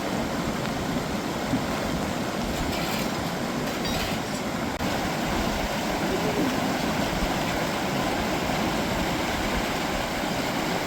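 A steady, loud rush of water, with a rumble at the low end.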